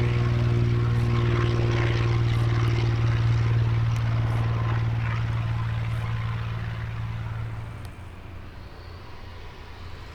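Light propeller aircraft's piston engine running at a steady pitch, then dropping away sharply about eight seconds in.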